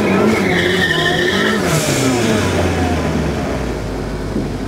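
Twincharged 4A-GZE four-cylinder engine of a KE70 Corolla revving, with its tyres squealing in a high held tone for about the first second and a half. The sound then falls to a lower rumble toward the end.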